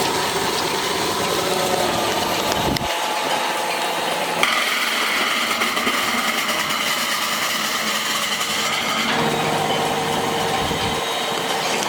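Workshop machinery running steadily, with a whining hum whose pitch shifts a few times.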